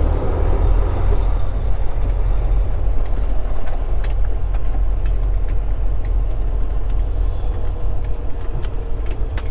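Volvo 780 semi truck's diesel engine running at low speed while the truck creeps along, heard from inside the cab as a steady low rumble.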